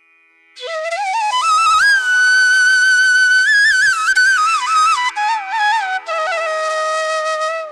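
Background music: a solo flute playing a slow melody with wavering, ornamented notes over a steady drone. It comes in about half a second in.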